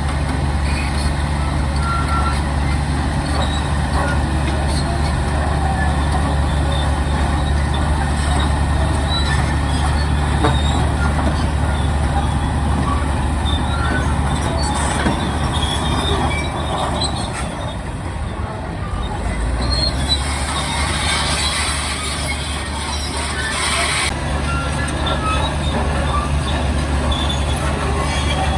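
Heavy diesel earthmoving machinery running steadily, its engine easing off briefly about two-thirds of the way through. A hiss rises over it for a few seconds and cuts off suddenly.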